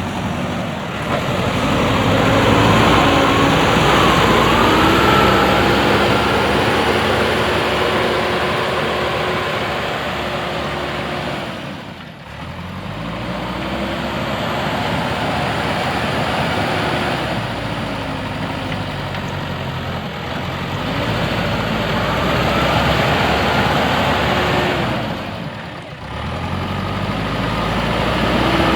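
JCB backhoe loader's diesel engine running under working load, its revs rising and falling as the machine works, dropping off briefly twice.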